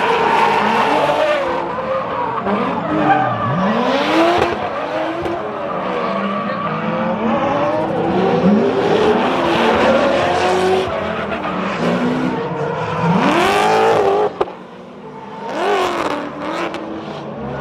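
Drift car engines revving hard, their pitch sweeping up and down again and again, over the screech of sliding tyres. The sound drops away suddenly about fourteen seconds in, then comes back.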